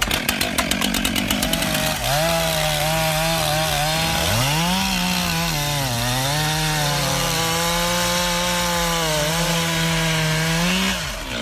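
Chainsaw cutting a tree. Rapid even pulsing at first, then the engine runs at high revs under load, its pitch sagging and recovering as the chain bites into the wood, before the sound cuts off abruptly near the end.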